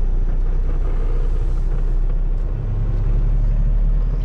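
Diesel engine of a Kenworth T680 semi truck running at low speed, heard from inside the cab as the truck turns slowly through a yard; its note firms up about two and a half seconds in.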